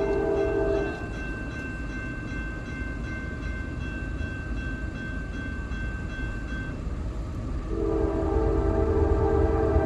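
Norfolk Southern freight locomotive horn sounding a chord that breaks off about a second in and blows again from about eight seconds, over the steady low rumble of the passing diesel train.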